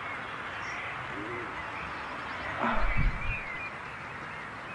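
Outdoor background hiss with faint bird chirps and a bird hooting, low and brief, about a second in. About three seconds in comes a louder, muffled low thump.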